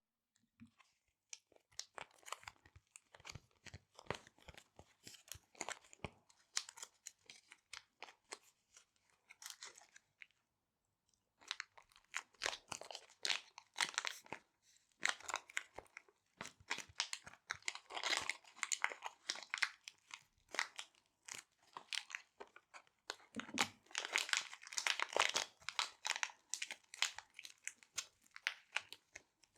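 Small resealable plastic bags crinkled and handled close to the microphone, in irregular crackling bursts, with a pause of about a second about a third of the way through and denser crinkling in the second half.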